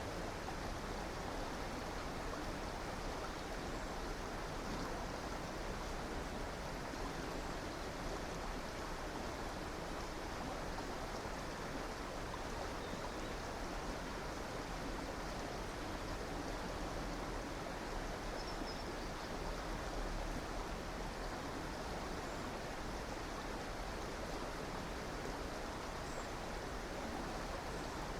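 Steady rushing of a flowing river, an even, unbroken water noise.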